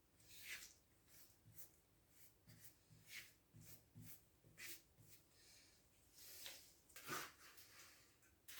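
Near silence, with faint, irregular taps and scrapes scattered throughout.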